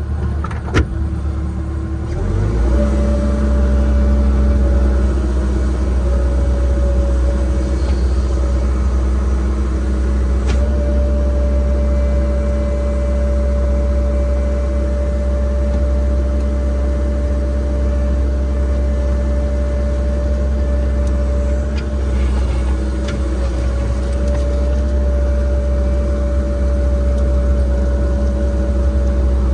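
Cat 306 compact excavator's diesel engine throttling up about two seconds in, then running steadily at working speed, with a steady high tone over the engine. A single click comes just before the engine rises.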